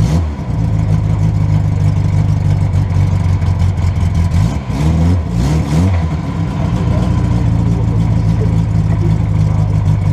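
1962 Triumph TR4's four-cylinder engine idling steadily, heard from inside the open cockpit, with a couple of quick throttle blips about halfway through that rise and fall in pitch.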